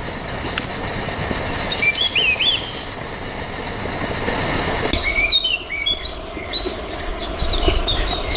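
Small birds chirping over a steady outdoor background hiss. There are a few short chirps about two seconds in. After the background changes suddenly about five seconds in, many quick rising and falling chirps follow.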